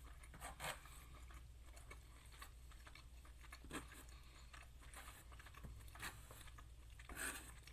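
Faint, scattered chewing and crunching from a person eating a rice-vermicelli bowl with lettuce, bean sprouts and peanuts. There are short separate crunches, a slightly louder one near the end.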